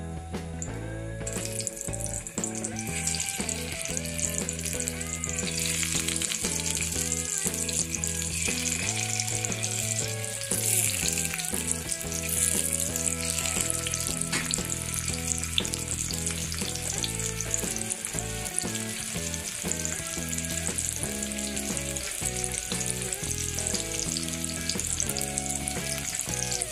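Thread-bound stuffed bitter gourds (karela) sizzling as they shallow-fry in hot oil in a pan. The sizzle starts about a second in and gets louder a few seconds later. Background music with held notes plays underneath.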